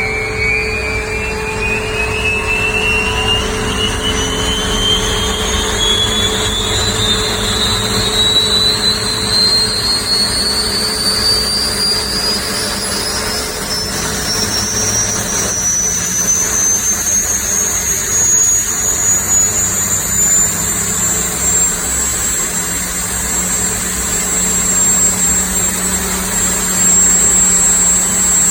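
Lycoming T53 gas-turbine engine spooling up on start: a loud whine rising steadily in pitch and levelling off near the end, over a steady low rumble.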